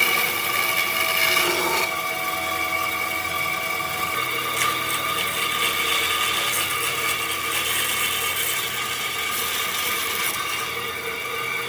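A woodworking power tool running steadily on wood, giving a constant whine over a rushing hiss.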